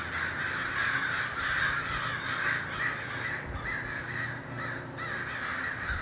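A large flock of hundreds of crows cawing all at once, a dense, continuous overlapping chorus of calls.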